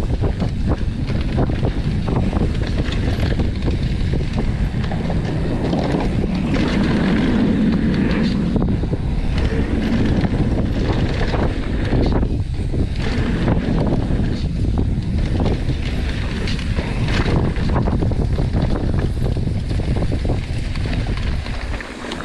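Mountain bike descending a dirt trail at speed: wind buffeting the microphone over the tyres rumbling on dirt, with rattles and knocks from the bike over bumps. The noise eases off as the bike slows near the end.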